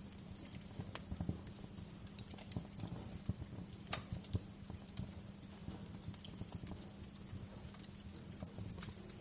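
Wood fire crackling: irregular sharp pops and snaps over a steady low rumble of burning, with one louder crack about four seconds in.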